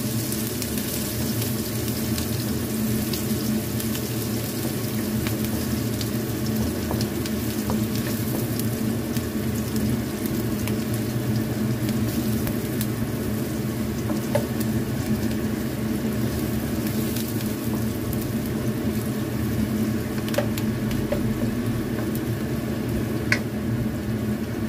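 Chopped onion and garlic sizzling steadily in oil in a nonstick wok, with a wooden spatula stirring them and now and then giving a light tap.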